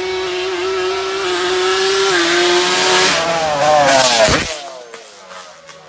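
Dirt bike engine held at high, steady revs as it comes closer, getting louder. Its pitch drops sharply as it passes, about four seconds in, and then it fades away.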